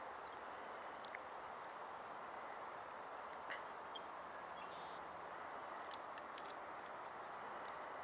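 A bird calling with short, high whistles that drop in pitch, five times with irregular gaps, over a steady background hiss.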